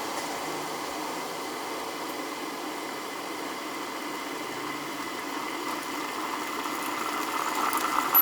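Kettle heating water: a steady rushing hiss that builds a little toward the end as it nears the boil, with a sharp click at the very end.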